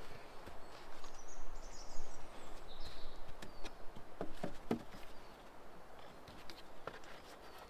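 Woodland outdoor ambience: a steady background hiss with a few light, sharp knocks and clicks in the middle, and a couple of faint high chirps in the first half.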